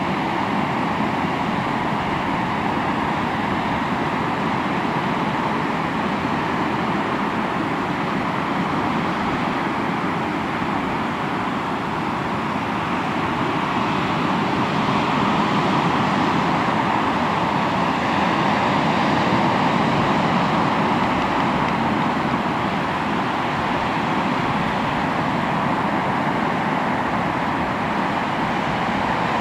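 Sea waves washing onto the shore, a steady continuous rush of surf that swells a little louder about halfway through.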